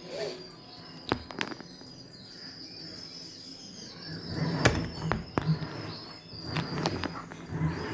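LG top-loading washing machine running its wash, a low hum that swells in pulses from about halfway through, with several sharp knocks and clicks.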